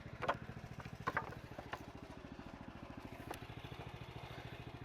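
The 14 HP Kohler engine of an HM130 portable bandsaw sawmill runs steadily. Over it come a few sharp wooden knocks and clatter of sawn boards and stickers being handled, the loudest about a second in.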